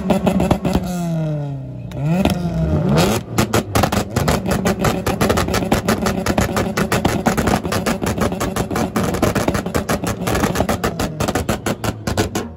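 Car engine revved hard: the revs drop and climb again about two seconds in, then are held high with rapid, even crackling pulses until it stops suddenly at the end.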